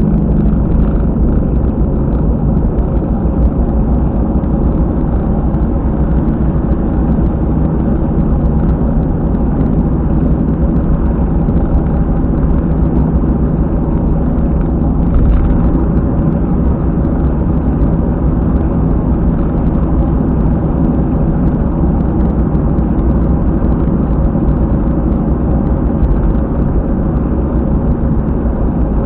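Car driving at expressway speed with a loud, continuous boko-boko thumping rumble from a rear wheel: the sign of a failed wheel hub bearing.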